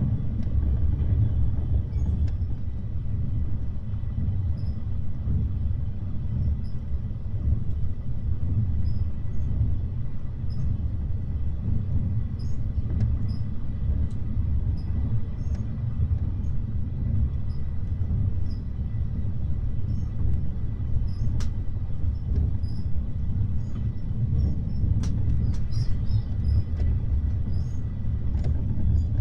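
Running noise heard inside a sleeping-car compartment of an Ohane 25 passenger coach at speed: a steady low rumble of wheels and TR217 bogies, heard strongly because the compartment sits at the end of the car over a bogie. Occasional faint light ticks sound over the rumble.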